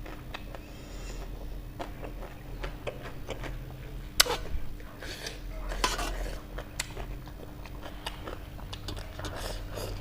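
Cutlery clinking and scraping against a dish while eating spicy noodles, with soft chewing; the sharpest clink comes about four seconds in. A low steady hum runs underneath.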